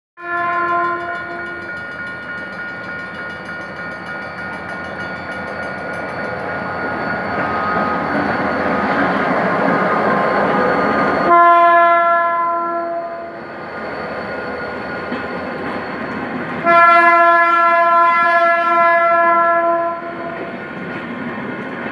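GM GT-22 diesel locomotive passing close by with a passenger train, its diesel engine and wheels growing louder to a peak as it goes by. The horn sounds three times as the crew's greeting: a short blast near the start, a longer one about halfway and another long one a few seconds later. After it the passenger coaches roll past.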